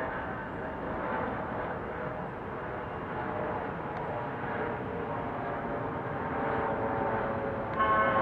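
Jet airliner engines running with a steady rushing hum and a whine of several held tones. Near the end the sound turns abruptly louder, with a sharper whine.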